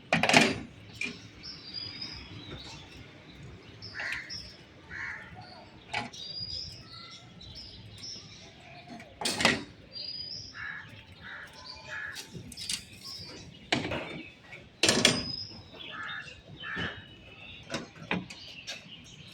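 Birds chirping in short high calls throughout, with several sharp knocks now and then, the loudest right at the start.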